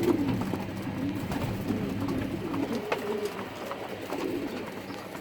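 Several racing pigeons cooing, low warbling coos overlapping one another, with a few faint clicks.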